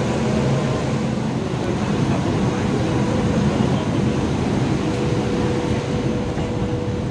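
Steady mechanical hum of a Vibrant Express high-speed train standing at the platform, with a faint steady whine running through it.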